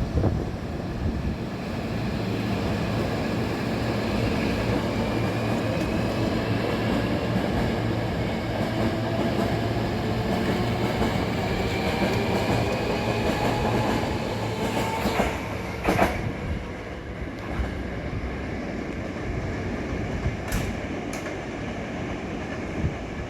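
Hankyu 1000 series electric train pulling away and accelerating, its motor whine rising steadily in pitch. Near the end come sharp clacks as the wheels pass over rail joints.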